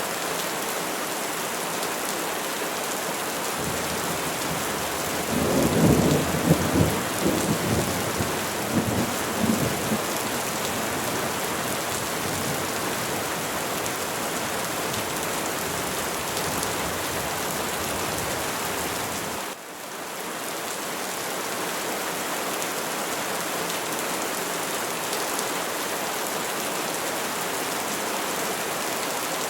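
Steady rain falling on trees, with a low, crackling rumble of thunder about five seconds in that lasts several seconds. Near twenty seconds the rain cuts out for an instant and swells back.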